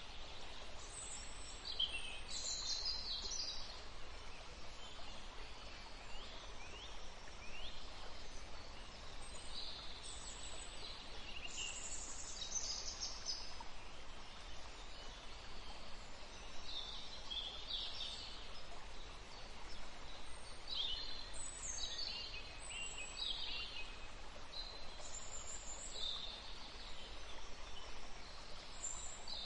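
Outdoor birdsong: small birds giving clusters of short high chirps and trills every few seconds over a steady background hiss.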